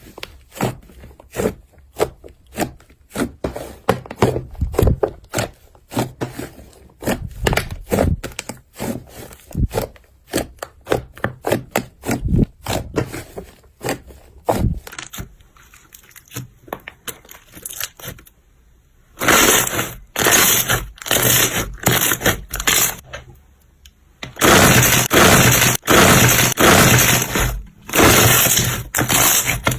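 Crunchy slime being squeezed and pressed, with dense crackling and popping. Past the middle it turns louder and denser, with a couple of short pauses.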